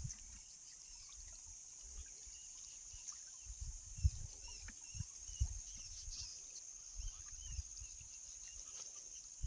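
Quiet outdoor ambience by a small stream: a steady high-pitched drone runs throughout, with faint short chirps and scattered soft low thumps and knocks of handling. The sharpest knock comes about four seconds in.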